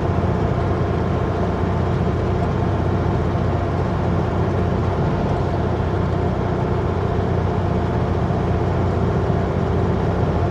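Kenworth W900L semi truck on the move, its diesel engine running steadily with road and tyre noise, heard from inside the cab.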